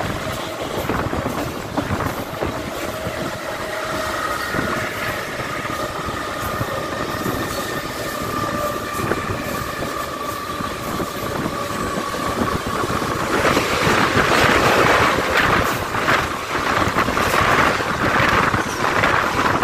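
Mumbai suburban electric local train running at speed, heard from its open doorway: a steady rush of wheel and track noise with a faint whine that slowly falls in pitch. About thirteen seconds in it grows louder, with rapid clatter, as another local train passes close alongside.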